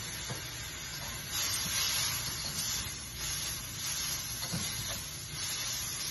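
Vegetables sizzling and hissing in a hot wok while a spatula stirs them, the hiss swelling and easing several times.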